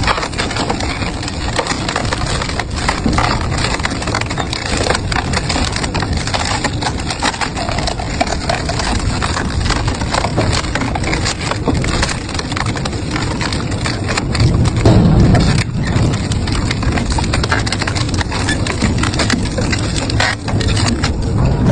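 Double-shaft industrial shredder crunching and tearing scrap, a dense unbroken run of cracks and snaps, briefly louder with a low grinding about fifteen seconds in.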